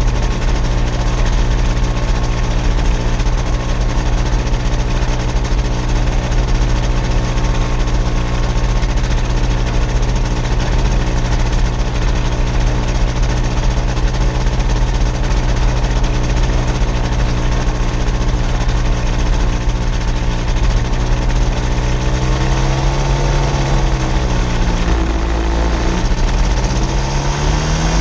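Vancraft gyrocopter's engine and propeller running steadily at power. About three-quarters of the way through, the engine note drops as the throttle comes back, then rises again near the end.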